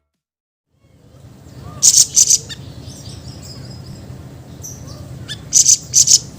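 Siri-siri songbird calling in short, loud, very high-pitched rasping bursts: a pair of bursts about two seconds in and another pair near the end, over a steady low hum.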